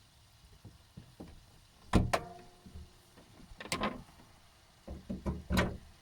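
Irregular sharp knocks and rattles from a Mazda MX-30's driveline, heard inside the cabin over a low rumble, in scattered clusters: a strong double knock about two seconds in and more near the end. The rattle is the driveline fault that Mazda put down to the reducer.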